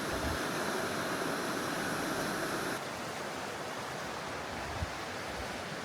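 Steady rush of a glacier-fed mountain river, the Partnach, running through its gorge. It drops suddenly in level about three seconds in.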